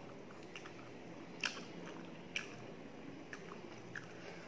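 Close-up wet chewing and mouth smacks of someone eating rice and mutton curry, along with fingers squishing rice into gravy. Two sharp clicks about one and a half and two and a half seconds in are the loudest, with fainter ones after.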